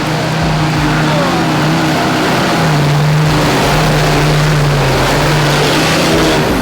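Off-road 4x4's engine held at high revs as it churns up a muddy hill climb. The revs dip briefly about halfway, then pick up again.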